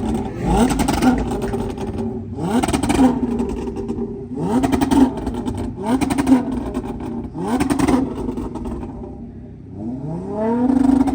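Car engine revved about six times in quick succession. Each rev climbs fast and then holds against a launch-control two-step limiter, with rapid exhaust crackling and popping.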